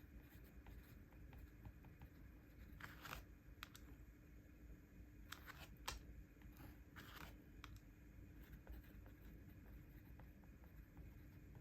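Faint paper sounds of journaling: a handful of short scratching and rustling strokes, mostly in the middle, over a quiet room hum.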